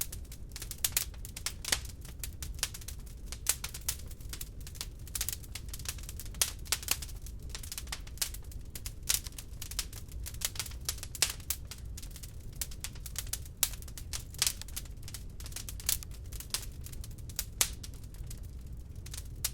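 Wood log fire crackling in a fireplace: irregular sharp pops and snaps, several a second and some louder than others, over a low steady rumble of the flames.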